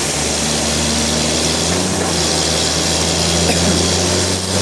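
Sawmill machinery running steadily: a loud engine-driven drone under a constant wash of noise, its pitch shifting slightly in the first two seconds.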